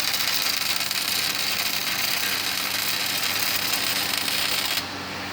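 MIG welder arc crackling and hissing steadily as a bead is laid, feeding 0.030-inch wire under argon shielding gas. The arc stops abruptly near the end.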